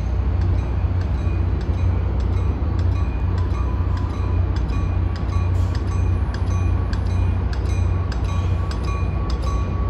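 Caltrain diesel commuter trains at the platform, with a steady deep engine rumble as one train rolls slowly in. Irregular light clicks and clinks of wheels over the rails and switches run through it.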